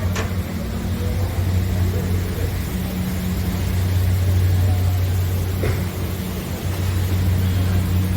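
Steady low drone of an engine running at idle close by.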